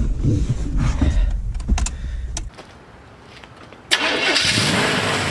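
V8 engine swapped into a small Isuzu pickup, running on its second start attempt, cuts out abruptly about two and a half seconds in. About four seconds in, a sudden loud spraying hiss starts: oil shooting out of the engine like a geyser.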